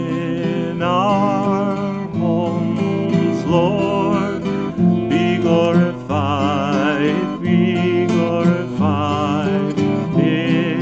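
Acoustic guitar strumming a slow hymn accompaniment, with a voice carrying the melody with vibrato but no clear words.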